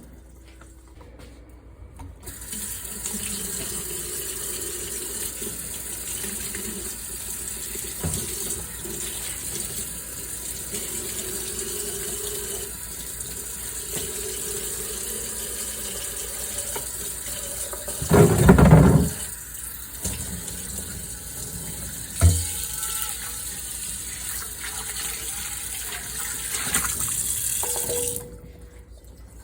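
Kitchen tap running into a sink while dishes are washed, turned on about two seconds in and off near the end. A loud thump about two-thirds through and a shorter knock a few seconds later.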